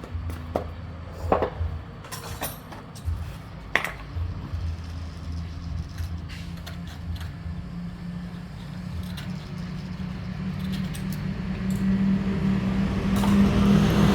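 Scattered metallic clicks and knocks of tool work, then a motor drone that grows steadily louder through the second half.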